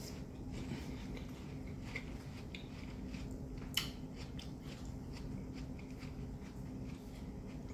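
Watermelon being chewed with the mouth closed: light wet crunches and mouth clicks, with one sharper click a little under four seconds in, over a steady low hum.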